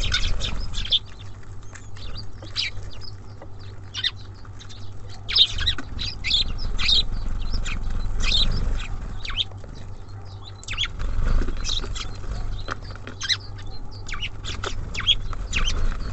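Small songbirds chirping: many short, high calls, some in quick runs, over a steady low rumble.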